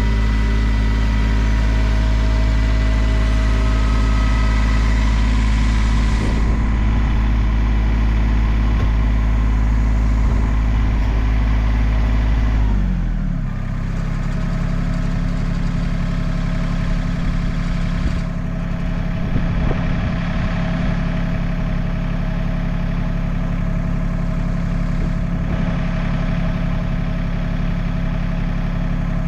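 An engine running steadily, its speed dropping to a lower idle about thirteen seconds in and holding there.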